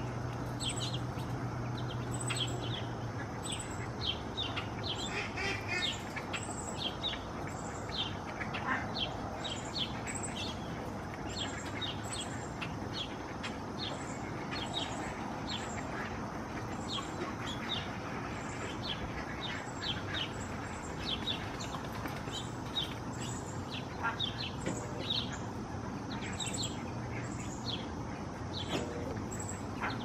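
Birds chirping all through, short high calls repeating a few times a second, over a steady outdoor background hiss. A low hum sounds for the first few seconds, then fades.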